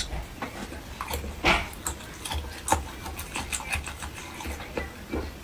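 Close-miked eating: wet chewing and lip smacks, many short irregular clicks and smacks.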